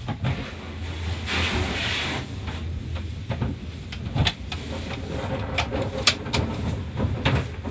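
Car wash machinery with a steady low rumble, a hiss of water spray lasting about a second, and scattered sharp knocks and clatters.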